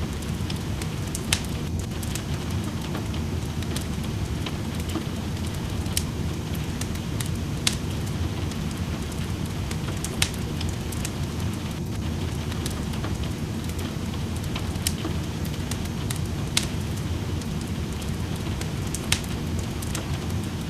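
Wood fire crackling in a fireplace, with sharp pops every couple of seconds, over a steady rush of rain.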